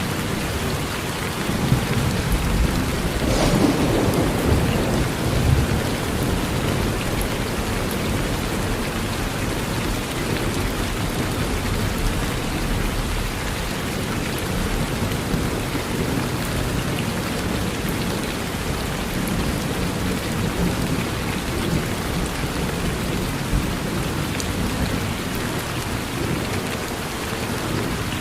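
Steady heavy rain falling on a porch, with a roll of thunder that swells a couple of seconds in and peaks with a sharper crack about three and a half seconds in, then fades back into the rain.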